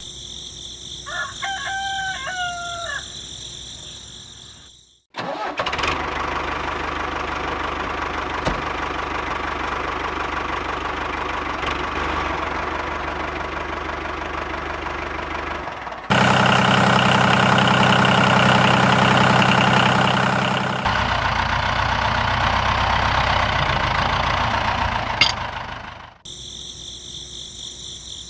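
A rooster crows once over a steady insect chirr. Then, after a sudden cut, a small motor-driven machine runs steadily, changing abruptly to a louder, even engine-like hum about halfway through, then to another running sound, before cutting back to the insect chirr.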